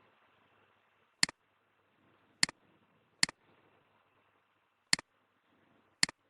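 Computer mouse clicking: five sharp single clicks at uneven intervals, over faint room hiss.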